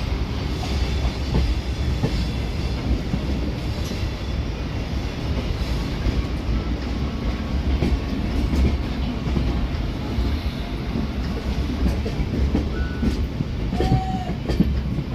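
Express train of LHB coaches running on the rails: a steady low rumble with scattered wheel clicks over rail joints. Two short high tones sound in the last couple of seconds.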